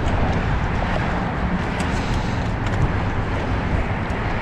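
Boat motor running underway with a low, steady drone, wind buffeting the microphone over it. The sound cuts off abruptly at the end.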